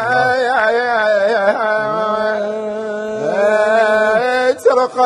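A man chanting a Husseini lament unaccompanied in the hijayni metre, drawing out a long melisma of held, wavering notes with ornamented turns, with a short break for breath about four and a half seconds in.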